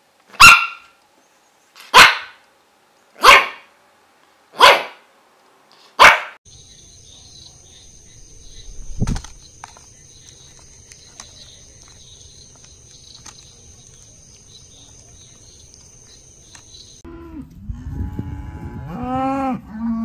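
A pug puppy barks five times, about one and a half seconds apart. A faint hiss with two steady high tones and a single thump follows, and near the end a cow starts mooing.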